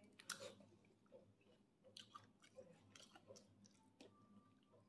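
Faint chewing of crispy fried chicken close to the microphone: a scatter of small crunches and wet mouth clicks, the loudest about a third of a second in.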